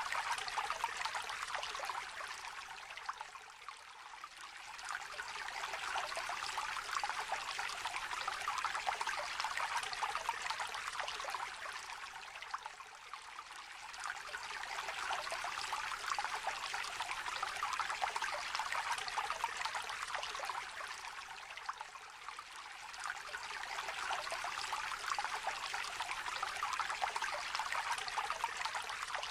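Small river trickling and babbling steadily; the flow eases off for a moment about every nine seconds and then swells back.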